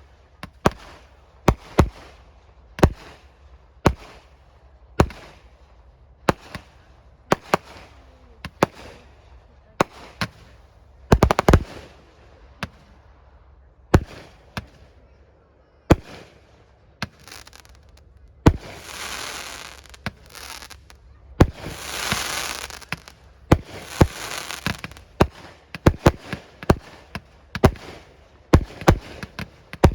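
A fireworks display: shells bursting in a run of sharp bangs about once a second. A few seconds of dense noisy rushing come about two-thirds of the way in, and the bangs come faster and closer together near the end.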